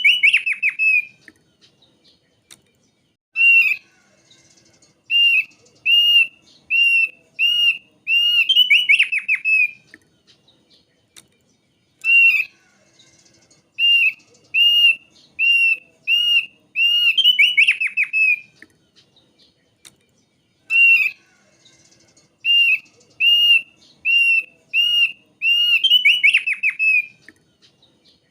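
Thick-billed white-eye (opior paruh tebal) singing: runs of short, clear whistled notes, about one and a half a second, each run ending in a fast rattling trill, the phrase coming round three times.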